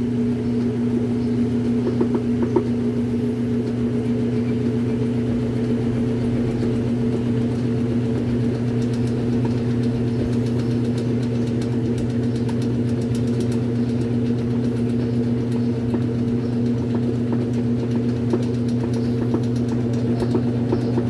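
Brastemp Super Filtromatica washing machine's motor running with a steady hum.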